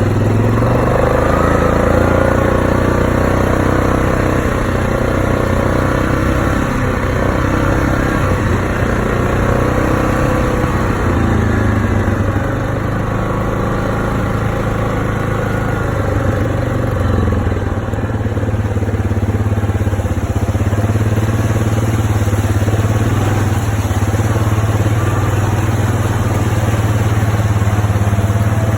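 Vehicle engine running steadily while driving through floodwater, its pitch drifting up and down with the throttle.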